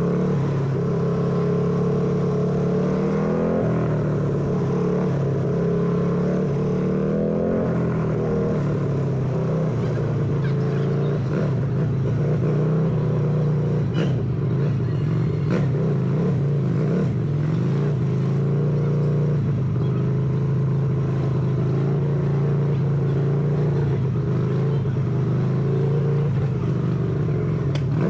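Harley-Davidson motorcycle's V-twin engine running under way, rising and falling in pitch with the throttle several times as it rides through city traffic.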